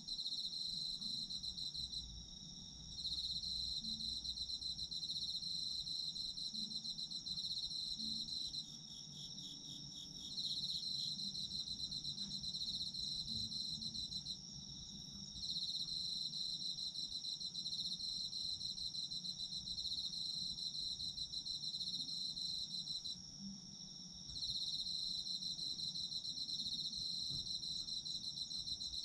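Chorus of autumn insects singing: one steady high trill that never stops, over a second pulsing trill that falls silent for a second or so four times. Around a third of the way in, another insect adds a short run of rapid chirps.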